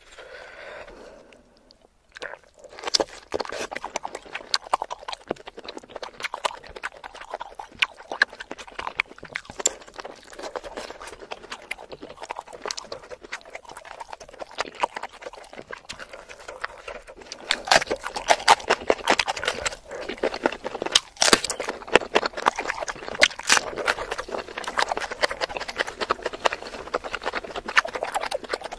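Close-miked eating sounds: wet chewing, sucking and lip smacks on shellfish in a thick spicy sauce, a dense run of sharp clicks that starts about two seconds in and grows louder about halfway through.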